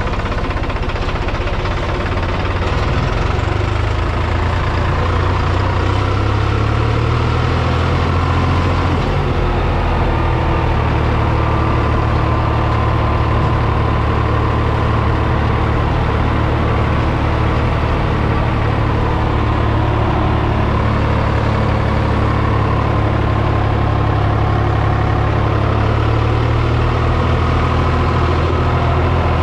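New Holland T480S tractor's diesel engine running steadily, its note shifting slightly about nine seconds in.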